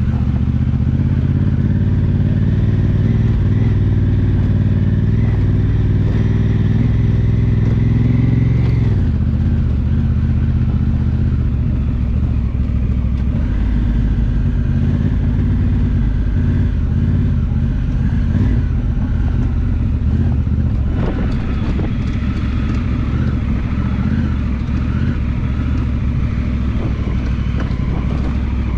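2018 Honda Africa Twin Adventure Sports DCT's parallel-twin engine running under way on a dirt track. Its pitch climbs steadily for about eight seconds, drops suddenly, then runs lower and uneven, with a few light knocks about two-thirds of the way through.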